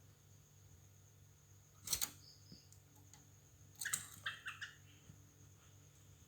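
Yellow-vented bulbuls calling: a sharp click about two seconds in, then a quick run of short chirps about four seconds in.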